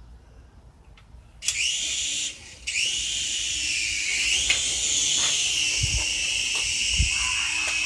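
Toy RC helicopter's small electric motors and rotors whining at a high pitch. The whine starts about a second and a half in, drops out briefly, then runs on with its pitch sliding up and down as the throttle changes. A couple of dull low thumps come near the end.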